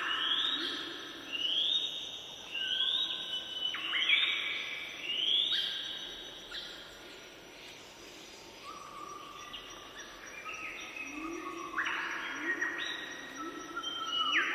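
A bird calling over and over, each call a quick rising note, about one a second; the calls grow fainter for a few seconds midway, then come back louder near the end.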